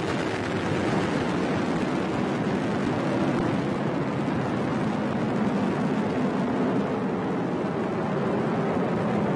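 Atlas V rocket's first-stage RD-180 engine and solid rocket boosters firing during ascent: a steady, dense rumble of noise that holds level.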